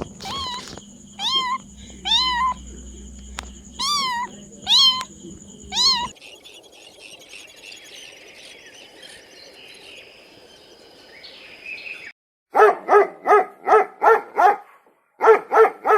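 A cat meowing over and over, short calls that rise and fall about once a second. After a quieter stretch, a dog barks in quick runs of yaps near the end.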